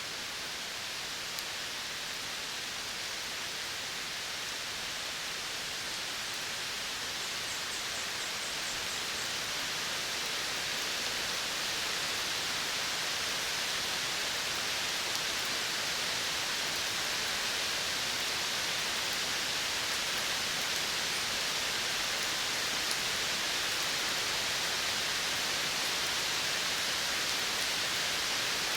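Outdoor natural ambience: a steady, even hiss, mostly high, slowly growing louder.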